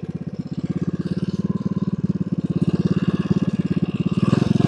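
Mini bike's 224 cc single-cylinder four-stroke engine, fitted with a header pipe and muffler tip, running at low revs with a rapid, even putter that grows louder near the end.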